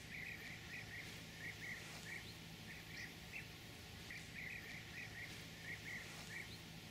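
Faint outdoor ambience: a small bird chirping repeatedly, short high notes in little runs of two to four, over a faint steady low hum.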